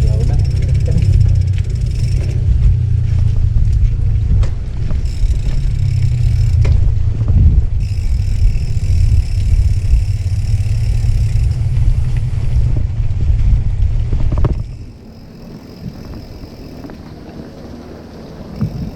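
Wind rumbling on the microphone while riding a bicycle, a loud, steady low buffeting that drops off sharply about fifteen seconds in.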